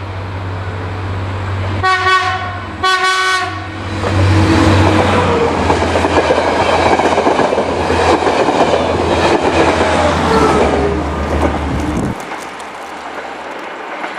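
A diesel-electric locomotive hauling an Intercity train sounds its horn in two short blasts about two seconds in, then the train passes close by with a loud rumble of engine and wheels on the rails. The sound cuts off abruptly near the end as the last coach goes by.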